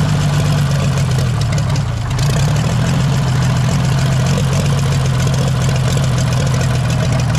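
Oliver 77 tractor's six-cylinder engine running steadily, one of its first runs after sitting stuck for over ten years.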